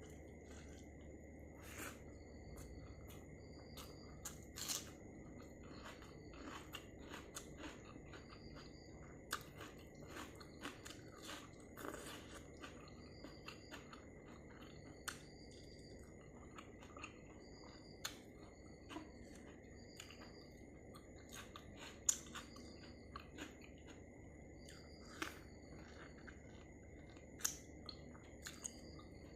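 A person eating pork and rice close to the microphone: quiet chewing and mouth sounds with irregular sharp clicks and smacks throughout.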